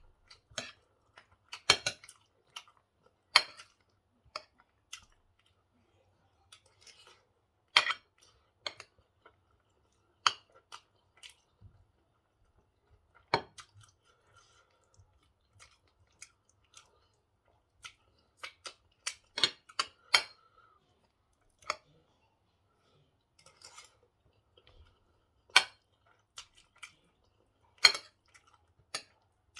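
Close-up eating sounds: chewing and mouth smacks, with cutlery clicking against a plate, as irregular sharp clicks a second or two apart.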